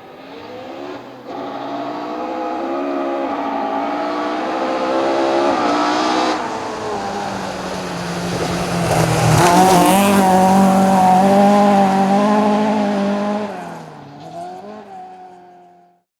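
Rally car engine at full throttle, approaching, passing close and pulling away, with gear changes along the way. It is loudest about nine to ten seconds in, as the car goes by with a rush of tyre and road noise. It then fades and cuts off just before the end.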